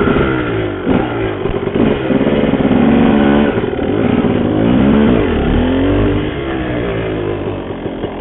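Honda CR250R two-stroke single-cylinder dirt bike engine under way, revving up and down several times as the rider works the throttle, then settling to a steadier note near the end.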